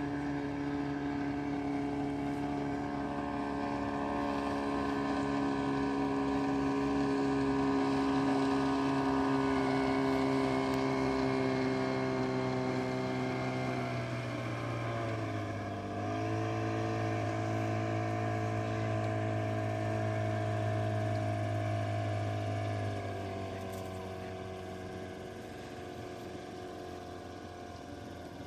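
Motorboat engine running steadily. Its pitch drops about halfway through as the throttle is eased, then holds, and drops again with the sound fading near the end as the boat slows on arrival.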